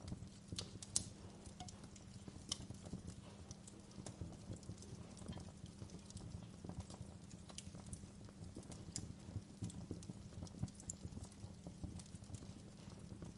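Campfire of burning wood crackling, with irregular sharp pops and snaps over a low steady rumble of the flames; a few louder pops stand out, one about a second in.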